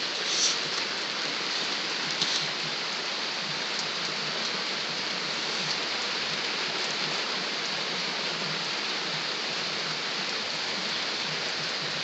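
Steady rain falling and splashing on surfaces, with a couple of sharper taps in the first few seconds from drops hitting the camera.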